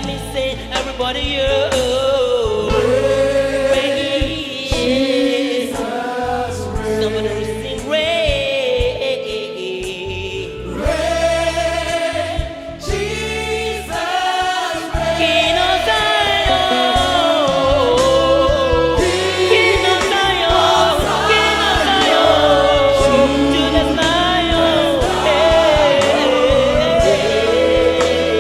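Gospel worship song with a choir singing over keyboard and bass accompaniment.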